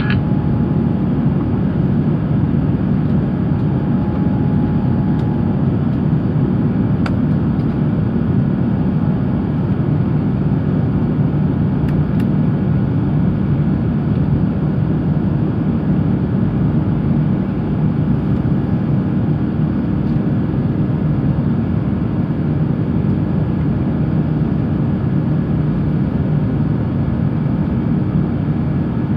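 Steady low cabin drone of an Airbus A350-900 in flight, the even engine and airflow noise heard from a passenger seat. A couple of faint clicks sound partway through.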